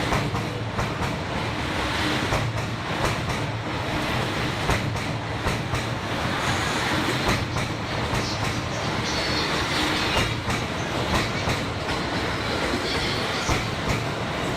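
Cassiopeia sleeper train, E26 series coaches behind an EF510 electric locomotive, rolling past at low speed. The wheels click irregularly over the rail joints above a steady rumble.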